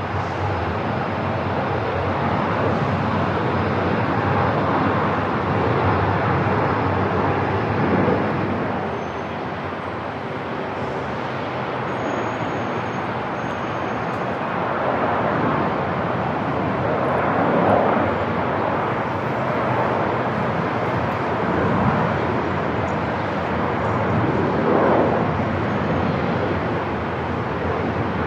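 Airport ambience: a dense, steady wash of noise that swells briefly every few seconds.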